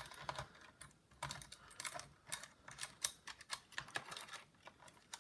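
Irregular light clicks and taps of plastic and thin wires being handled inside a Dell Inspiron 1545 laptop, as the wireless card's antenna cables are pulled free and rerouted through the chassis.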